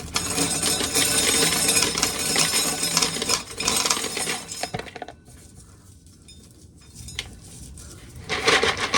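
Dried corn kernels rattling and clinking as corn is shelled off the cob into a container. The rattling is dense for about the first five seconds, then it goes quieter, with a short loud burst of rattling near the end.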